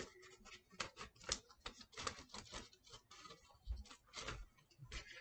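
Faint crinkling of material being squeezed and crumpled by hand into tiny balls, an irregular run of small crackles and clicks.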